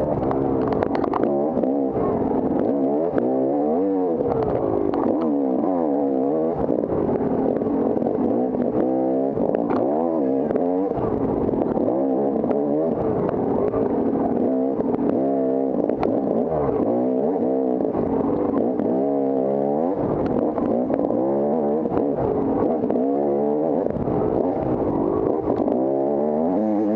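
Off-road dirt bike engine under hard riding, its pitch rising and falling over and over as the throttle is worked and gears change, with some rattle from the bike.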